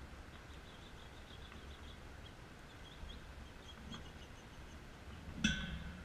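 Faint short high chirps of small birds over a low outdoor rumble, and a single sharp, ringing clink about five and a half seconds in, the loudest sound.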